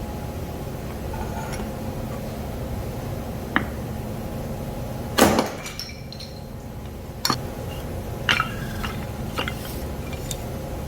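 A single heavy knock about five seconds in, with lighter clinks and taps before and after it, over a steady low hum.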